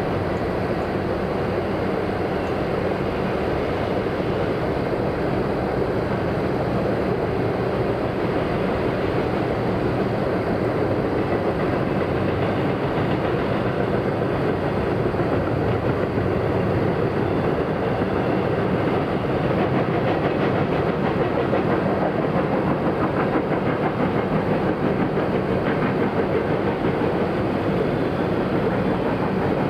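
A train running past, its wheels on the rails making a steady, unbroken noise.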